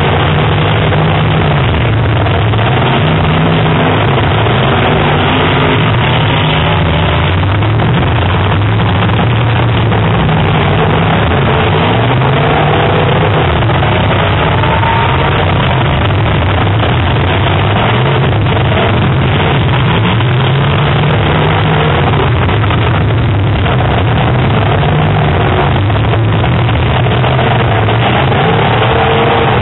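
Several full-size demolition derby cars' engines running loud and revving at once, their pitch wavering up and down continuously.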